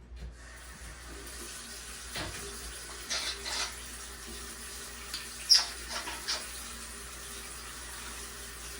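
Steady running water, starting about half a second in, with a few short, high chirps from an African grey parrot.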